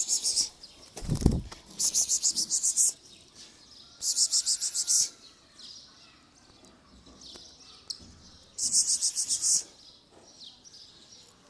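House sparrows giving rapid high chirping chatter in four bursts of about a second each. A dull thump about a second in.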